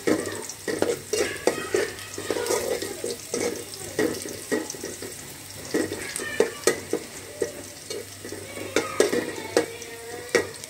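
Sliced onions sizzling as they fry in oil in an aluminium pot, stirred with a metal spatula that scrapes and clinks irregularly against the pot, with the sharpest clinks about six and a half and nine seconds in.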